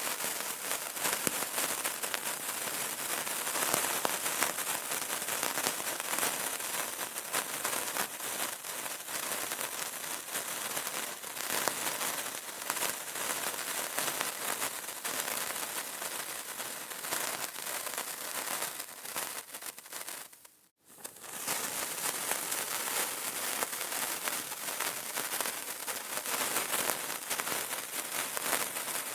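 Burning candle crackling steadily: a dense run of small pops and snaps. The crackle cuts out for a moment about two-thirds of the way through, then resumes.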